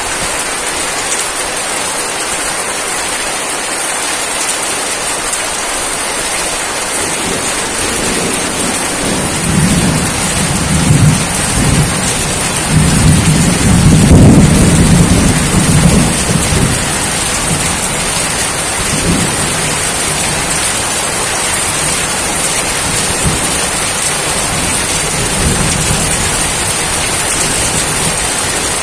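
Steady rain falling, with a long roll of thunder. The thunder builds about a third of the way in, is loudest near the middle, and dies away, with fainter rumbles later on.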